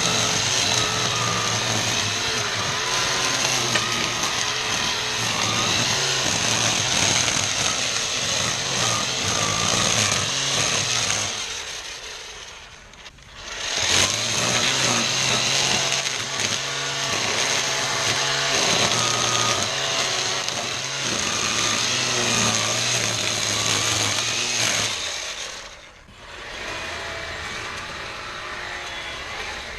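ECHO 58-volt battery string trimmer's electric motor running under load, its whine wavering as the line cuts through tall weeds and grass. It spins down and picks up again about 13 seconds in and again around 26 seconds; after the second restart it runs quieter.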